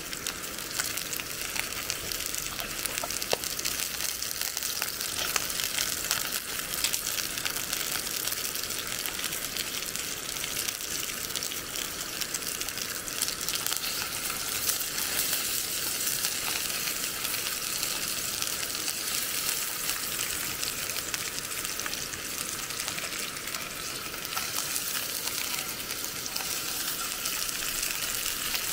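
Food frying in a hot pan: a steady sizzle, dense with fine crackles.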